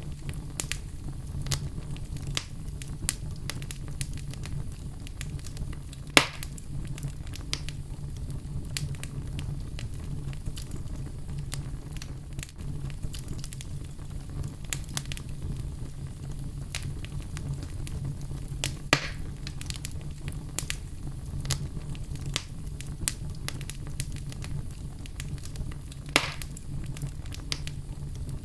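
Wood fire burning in a fireplace: a steady low rumble of flame with scattered sharp crackles and a few louder pops, about 6, 19 and 26 seconds in.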